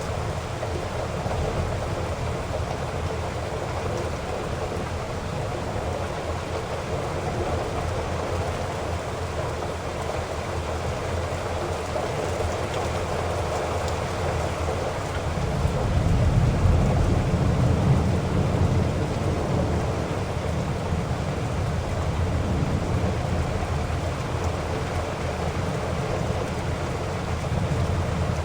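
Heavy rain falling steadily, with a low rumble of thunder that swells in about halfway through and then lingers.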